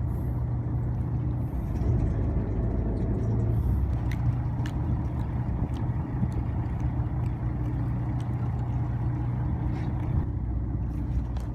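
A fishing boat's engine running steadily, a low drone, with a few faint clicks over it.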